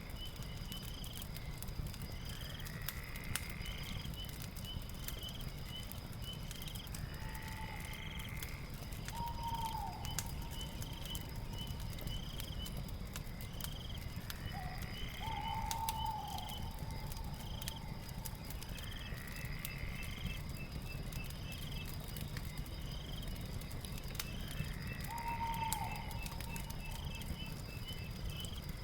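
Night-sounds ambience of a steady insect drone and rapid chirping, with a short rising call every few seconds and a lower, hooked call three times. Fire crackles sparsely over a steady low rumble.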